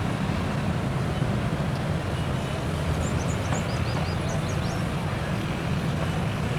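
Steady low rumble of a passenger express train running along the track.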